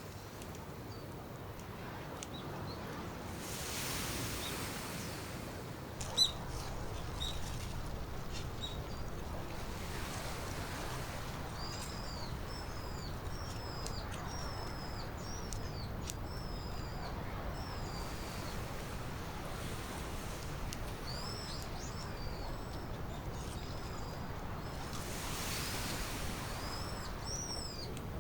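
A bird calling outdoors: series of short, curved, high chirps repeated many times through the second half, over a steady low background rumble. One sharp knock about six seconds in.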